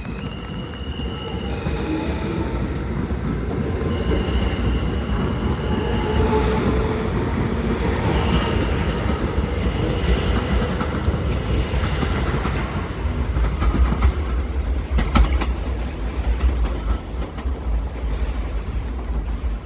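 New York City subway train on the L line pulling out and picking up speed, its motors whining in steady tones that step up in pitch over the first few seconds. The wheels click over rail joints and squeal, with the sharpest clicks in the second half.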